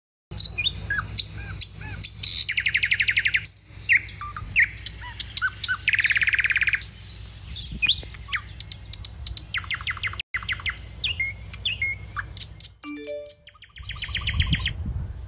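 Many small birds chirping and calling, with fast rattling trills and sharp repeated chirps, over a low steady rumble.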